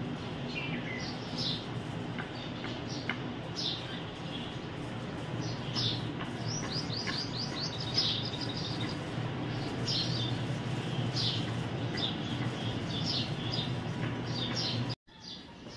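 Birds chirping in short, repeated calls over a steady low hum; the sound cuts off abruptly near the end.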